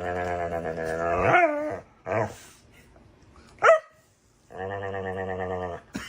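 A dog vocalizing: two long, growly grumbles about a second and a half each, the first bending up in pitch at its end. Between them come a short grunt and one sharp yip.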